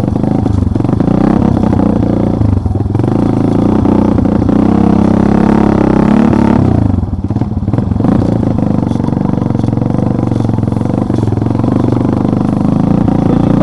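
Engine of an off-road vehicle running as it drives, its revs rising and falling, with a brief drop about seven seconds in, and some rattling.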